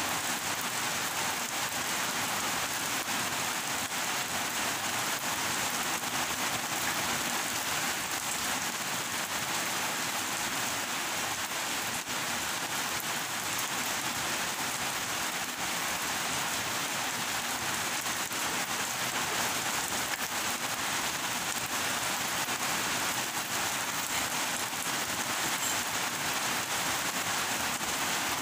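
Rain falling steadily, an even unbroken hiss throughout.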